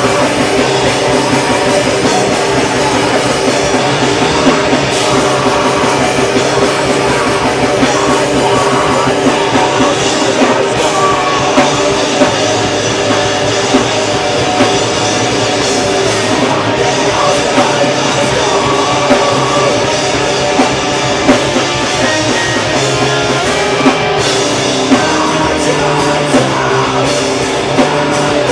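Loud live metalcore band playing: distorted guitars, bass and a pounding drum kit, with a vocal mixed in.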